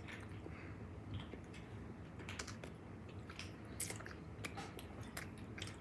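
Close-up mouth sounds of people chewing a soft chocolate cookie: scattered wet smacks and small clicks over a faint steady room hum.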